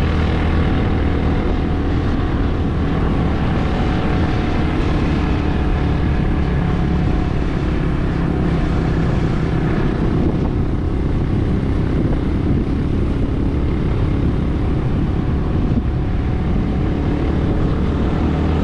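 Motorbike engine running steadily at an even speed while riding, with a low, constant hum.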